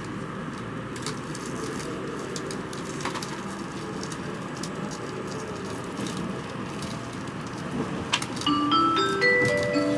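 Steady hum of a Tokaido Shinkansen car's interior, then about eight seconds in the train's onboard chime starts: a bright melody of stepped notes in a marimba-like tone, the signal that the conductor's announcement is about to follow.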